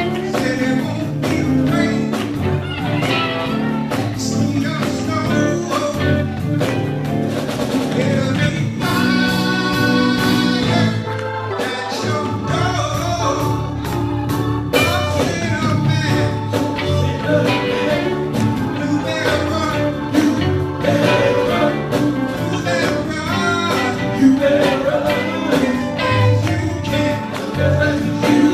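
Live band music with singing: electric guitar, bass, drums and keyboards playing together, with a held chord about nine seconds in.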